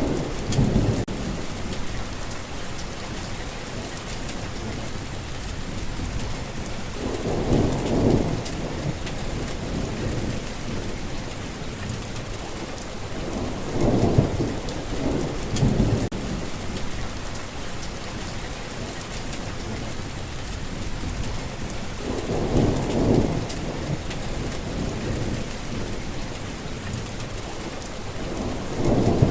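Steady rain falling, with low rumbles of thunder swelling and fading about every seven seconds.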